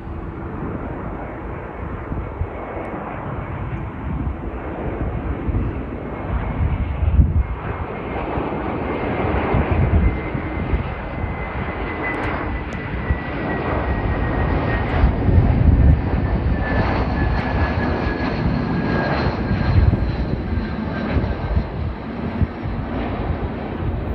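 Jet airliner's engines passing, a steady rush that swells and a thin whine that glides slowly down in pitch, with wind buffeting the microphone.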